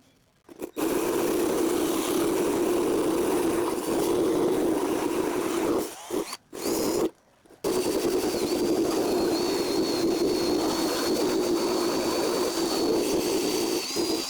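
A power tool running steadily, a hum with a wide hiss, broken by abrupt cut-outs about six and seven seconds in; a faint high whine joins it partway through and holds.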